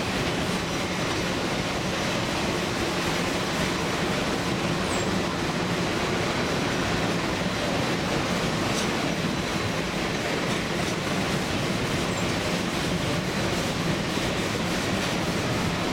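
Open-air passenger car of a steam-hauled narrow gauge train rolling along the track: a steady rumble of wheels on rails.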